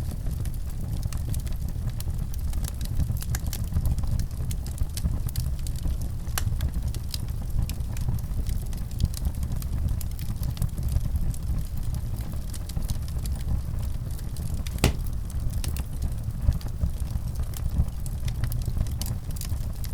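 Fireplace fire crackling over a steady low rumble, with frequent small pops and one sharper pop about fifteen seconds in.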